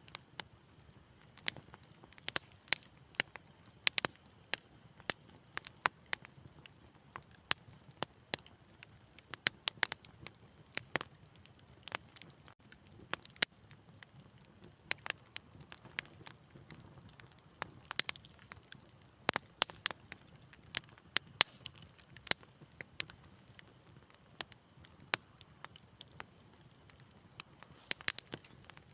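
Fireplace fire crackling: irregular sharp snaps and pops, sometimes several a second, over a faint low hiss.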